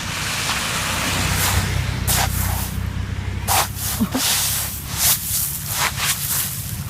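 Hailstorm: a loud, steady hiss of hail and rain coming down, with a sharper separate strike about once a second.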